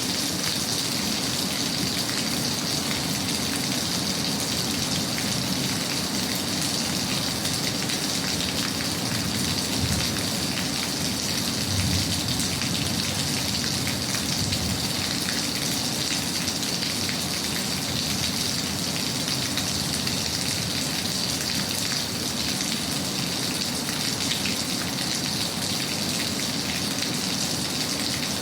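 Steady rain falling, an even continuous patter, with two brief low rumbles near the middle.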